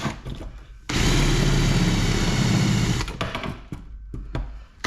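Power drill boring out a rivet in an aluminum crutch, run in bursts: briefly at the start, then steadily for about two seconds, then a few short clicks before it starts up again at the end.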